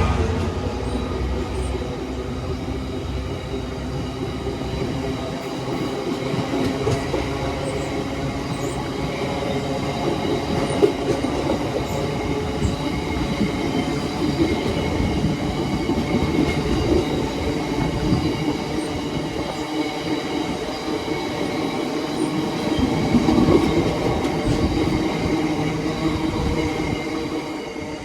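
A freight train hauled by a Class 66 diesel locomotive passing through, its wagons rolling by with a steady rumble and squealing, ringing wheels.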